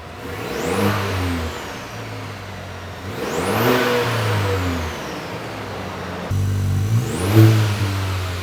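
2.7-litre turbocharged four-cylinder engine of a GMC Canyon AT4X being revved three times through a Magnaflow Overland Series exhaust. Each rev rises in pitch and then falls back.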